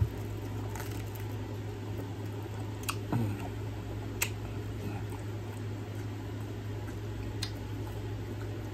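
A person biting into and chewing fried chicken close to the microphone: wet chewing and mouth smacks with a few short sharp clicks, over a steady low hum.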